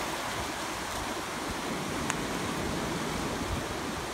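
Pacific Ocean surf washing steadily onto the shore, a continuous rushing noise. A brief sharp click sounds about two seconds in.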